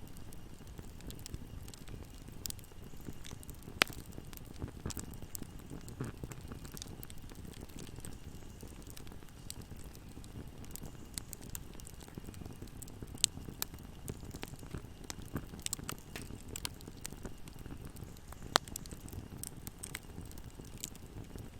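Wood fire burning in a fireplace: a steady low rumble of flames with frequent small crackles and pops, and three sharper snaps at about 4, 13 and 18 seconds in.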